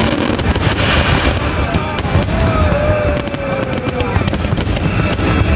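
Aerial fireworks going off in rapid succession: dense, continuous low rumbling booms with many sharp cracks on top. A falling whistle-like tone runs through the middle.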